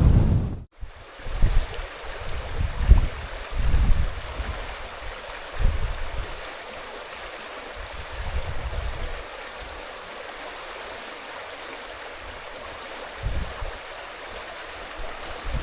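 River water rushing steadily, with gusts of wind buffeting the microphone in low, uneven thumps, heaviest in the first few seconds.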